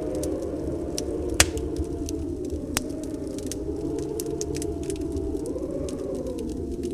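Wood fire crackling with scattered sharp pops, the loudest about a second and a half in, over a steady low rush of storm wind with a faint wavering whistle.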